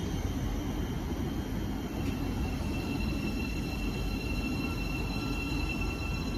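Train running at a station platform: a steady low rumble, with a thin high whine that grows stronger about two seconds in.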